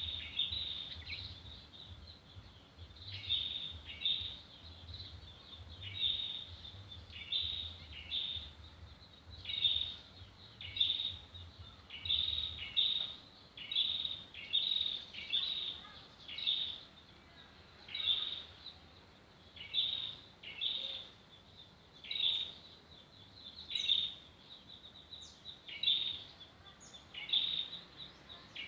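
A bird calling over and over with short, high chirps, roughly one a second, with a faint low hum underneath that fades out about halfway through.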